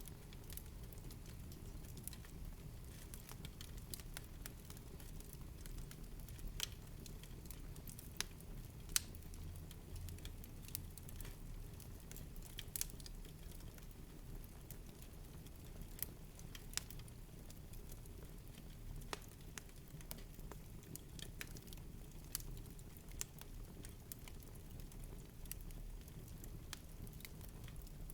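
Wood fire crackling in a fireplace: scattered sharp pops and snaps at irregular intervals over a soft, steady low rumble of the flames.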